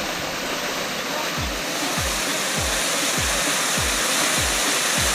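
Steady, loud rushing of a waterfall. About a second and a half in, a music track's deep kick drum comes in over it, beating about every 0.6 seconds.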